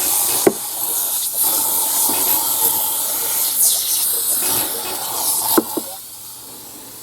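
Steady spraying hiss onto an engine during cleaning, broken by a couple of sharp clicks. It drops off sharply near the end.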